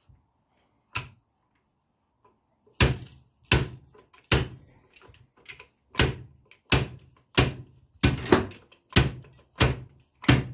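Repeated sharp metallic knocks, about one every 0.7 seconds after a single knock near the start, as a new fork seal is driven down into a Triumph Speed Triple upside-down fork tube until it seats solid.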